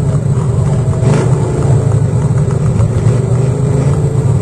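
Pulling truck's engine running loud and steady, with a deep, even drone.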